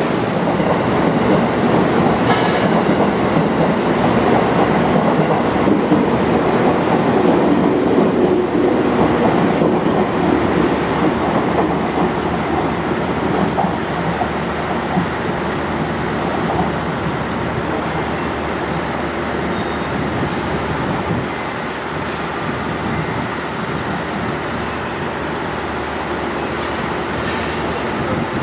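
Running noise of a JR Kyushu 787-series electric train rolling along the tracks, heard from on board. The rumble is loudest at first and eases off, with a few sharp clicks from the rails. A thin, high wheel squeal comes in about two-thirds of the way through.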